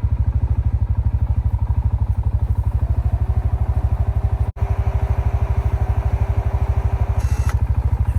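CFMOTO ATV engine idling with an even, rapid pulse while its winch runs with a steady whine from about three seconds in until about seven seconds in, pulling the stuck ATV out. The sound drops out for an instant about halfway through.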